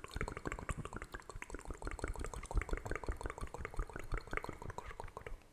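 ASMR wet mouth sounds: a rapid, irregular series of small wet clicks and pops, several a second.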